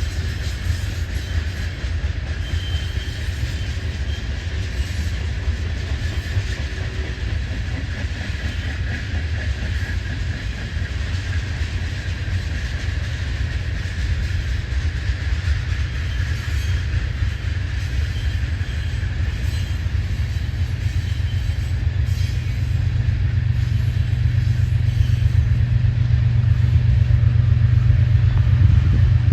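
Loaded ethanol tank cars of a BNSF unit train rolling past: a steady rumble of wheels on rail, growing louder near the end.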